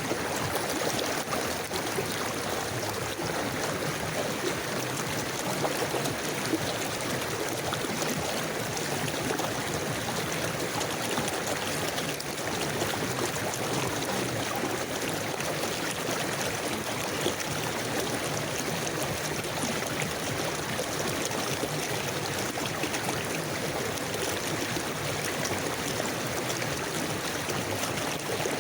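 A river flowing steadily, an even rush of running water with no distinct splashes.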